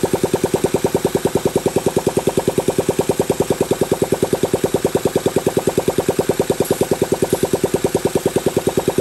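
Honda Z50's small single-cylinder four-stroke engine chugging in a steady, even rhythm of about nine or ten beats a second.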